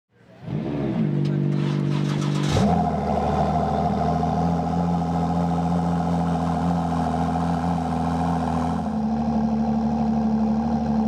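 Car engine running through a loud exhaust. Its pitch swings up and back down in the first seconds, then it settles into a steady high idle.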